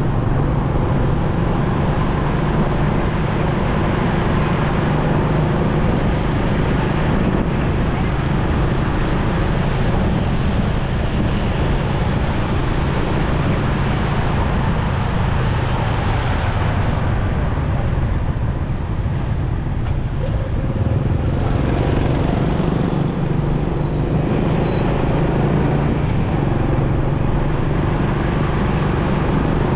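Motorcycle engine running steadily while riding, with wind rushing over the microphone and road traffic around it. The engine note eases for a few seconds past the middle, then picks up again.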